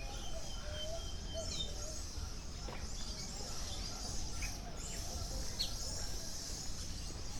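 Aviary birds calling: scattered short chirps and whistled notes at several pitches, including one held high whistle early on, over a steady high hiss.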